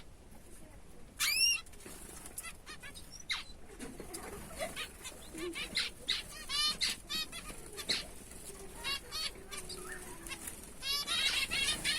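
Zebra finches and other small aviary birds calling, with many short chirps and a busier run of quick calls near the end.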